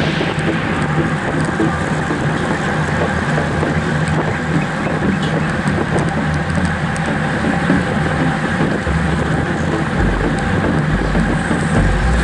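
Steady rush of wind and road noise on a moving bicycle ride's microphone in strong wind, with heavier low wind buffeting in the last few seconds.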